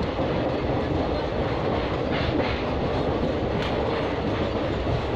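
Train running along the track, heard from aboard: a steady rumble of wheels on rails, with a few sharper clacks about two seconds in and again a little later.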